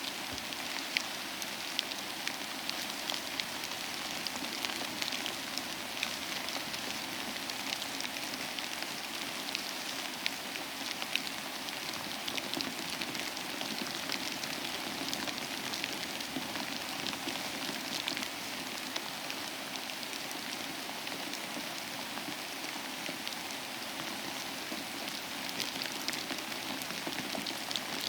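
Steady rain falling, with many sharp individual drop impacts standing out from the even hiss.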